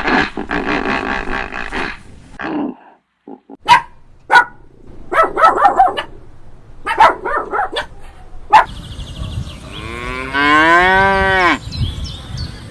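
A cow mooing once, about ten seconds in: one drawn-out call that rises and then falls in pitch. Before it come a long pitched animal call at the start and several short, sharp animal calls.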